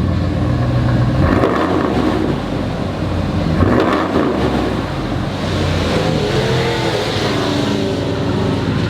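Dodge Ram SRT-10's 8.3-litre Viper V10 running through a new aftermarket exhaust with quad tips, freshly started. It idles between blips of the throttle: two short revs, then a slower rev that rises and falls.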